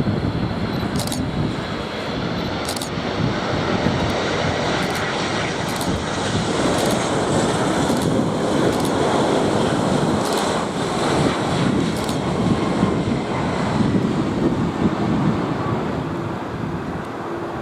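Jet airliner's engines passing overhead: a steady roar with a faint whine that shifts slowly in pitch.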